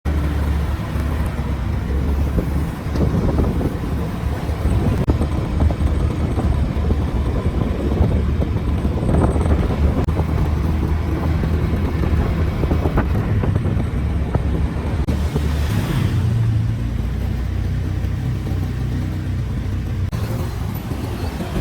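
Street traffic heard from a moving motorcycle: engines running, with a steady low rumble.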